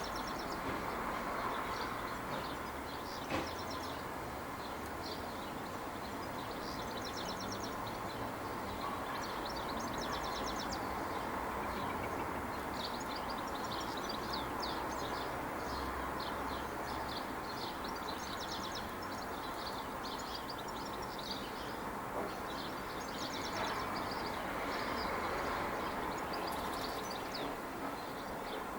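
Small birds chirping in quick repeated twitters over a steady background rumble.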